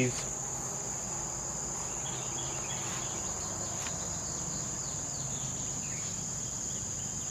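Steady, unbroken high-pitched insect chorus, like crickets trilling, with no pauses.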